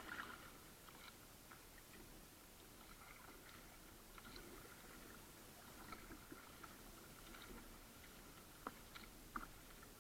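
Faint sounds of a kayak being paddled: soft water splashes and drips from the paddle, with a couple of sharper knocks near the end.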